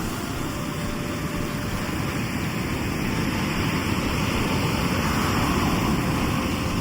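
Sea waves washing onto the shore: a steady rush of surf that swells to a peak about five seconds in, then eases.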